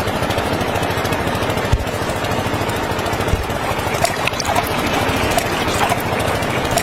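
A small motor running steadily with a fast, even rattle, and a few short clicks or squeaks between about four and six seconds in.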